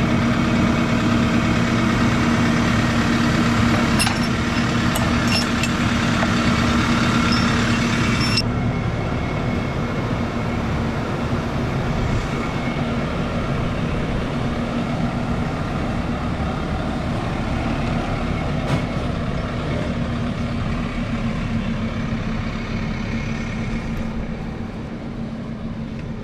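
Diesel engine of a Case 120 tractor running at work while backing a trailer. About eight seconds in, the higher part of the engine sound drops away and it runs more quietly.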